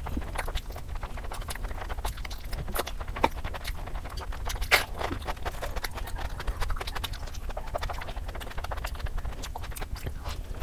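Close-miked eating sounds: crunchy fried chicken being chewed, with many small wet mouth clicks and smacks in quick succession and one louder click about halfway through. A steady low hum runs underneath.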